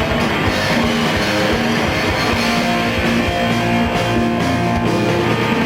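Live rock band playing a loud instrumental break: electric guitar with drums hitting steadily, between sung lines of a fast cover song.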